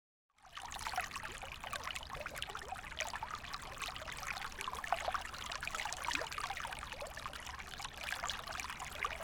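Water trickling and babbling steadily, a dense patter of small splashes, starting just under half a second in.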